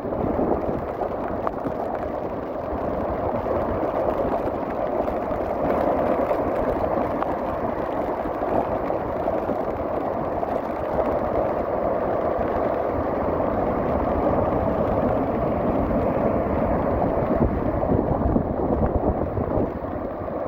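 Rough sea waves breaking and churning in a strong wind: a continuous, rushing surf noise, with wind buffeting the microphone.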